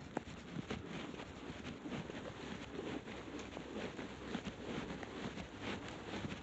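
Faint footsteps and clothing rustle picked up by a body-worn camera as a person walks, with scattered light taps and rubbing noises.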